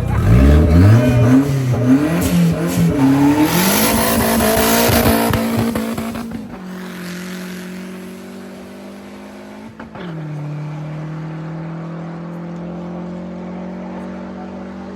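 Race car engine revving hard as it accelerates away, its pitch climbing and dropping back several times through the gear changes. After about six seconds it fades and a quieter steady engine hum remains.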